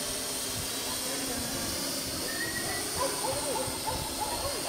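Steady wind hiss on the microphone with a faint high, steady whine, and short faint rising-and-falling chirps from about halfway in.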